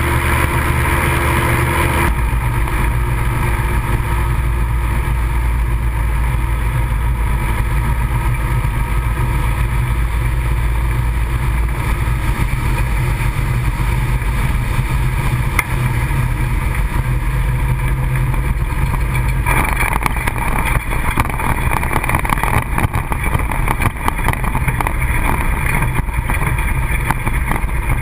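Ultralight aircraft engine and propeller running steadily, heard from a wing-mounted camera. The engine note shifts about two seconds in, and from about twenty seconds in the sound turns rougher and brighter.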